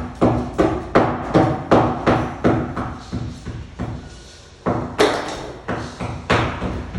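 Hand hammering: a fast run of blows, nearly three a second, that fades to a pause about halfway through, then resumes with a couple of heavy strikes.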